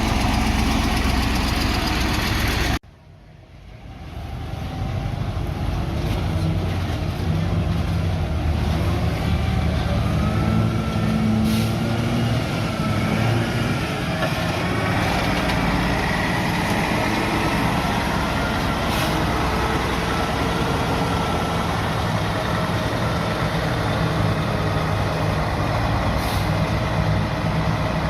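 Bulldozer's diesel engine running steadily while working, with a faint wavering squeal over it in the middle stretch. The sound cuts out abruptly about three seconds in and swells back within a couple of seconds.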